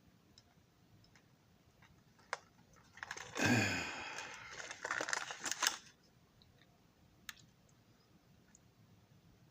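Light clicks and taps from small plastic model parts being handled, with a louder stretch of rustling and clicking handling noise lasting about three seconds in the middle.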